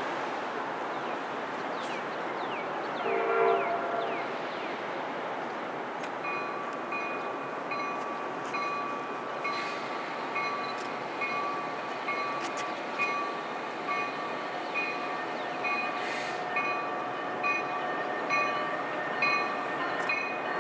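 A train horn sounds once, briefly, about three seconds in from a train still in the distance. From about six seconds in a bell rings steadily at roughly one and a half strikes a second, over a steady rumble as the train draws nearer.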